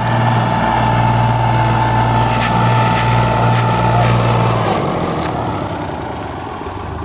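Tractor engine running hard with a steady high whine over its note; about five seconds in, the whine stops and the engine drops to a lower, quieter note.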